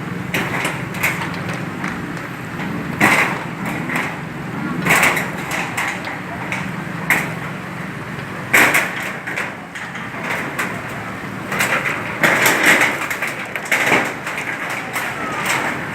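Irregular knocks, scrapes and clattering, with several louder bangs spread through, over a steady low hum.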